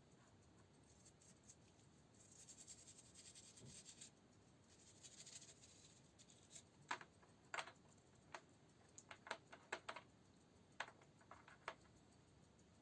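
Faint scratching, then a scattering of about a dozen small sharp clicks and taps, as of small hard parts and tools being handled.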